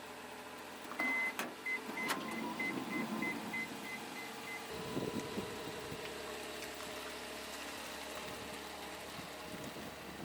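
Electronic beeping: one longer high beep, then a run of short beeps at the same pitch, about three a second, stopping about four and a half seconds in. A steady low hum follows.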